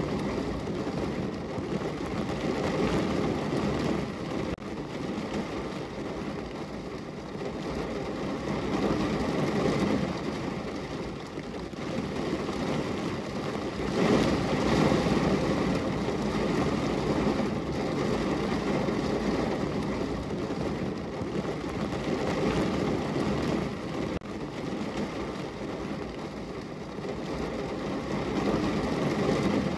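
Steady rain falling against a window, a dense, even rush of drops that swells and eases every few seconds.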